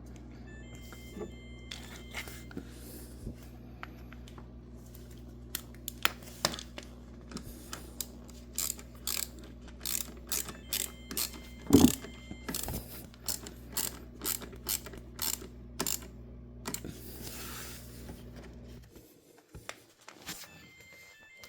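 Screws being driven back into a dishwasher panel with a ratcheting screwdriver, its pawl clicking in quick runs, with one louder knock near the middle. A steady low hum runs under it and stops about 19 seconds in, and short faint beeps, the dishwasher's error beeping, come about every ten seconds.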